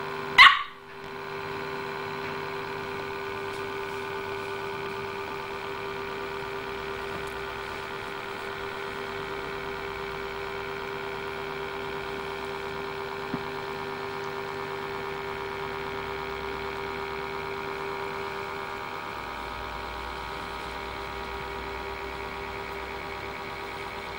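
A puppy gives one short bark right at the start, then a steady electrical hum with several fixed tones runs on unchanged, with one faint tick about halfway through.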